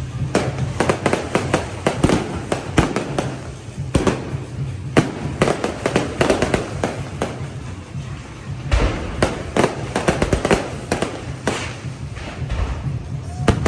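Fireworks and firecrackers going off in dense volleys of sharp cracks and bangs, easing for a moment a little past halfway before picking up again.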